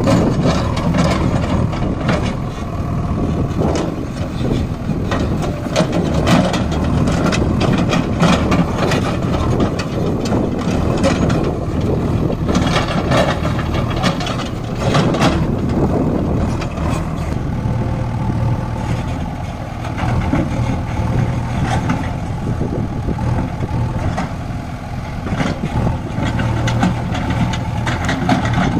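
Tractor diesel engine running steadily, with frequent clattering knocks over the first half, then a smoother, even drone.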